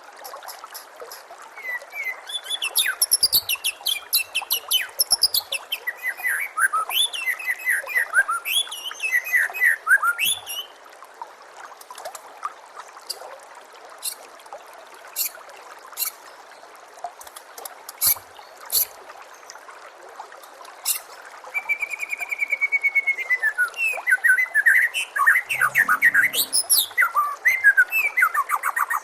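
White-rumped shama (murai batu) singing: fast runs of varied whistles and chattering phrases, a string of sharp single ticking notes in the middle, then another rush of song near the end. A steady trickle of running water goes on underneath.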